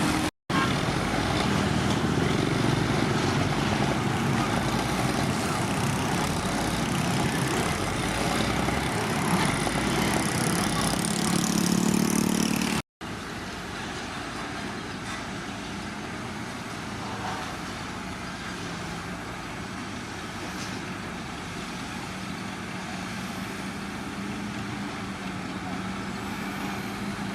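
Heavy diesel construction machinery engine working loudly, swelling toward a cut. After the cut, a quieter, steady diesel engine drone.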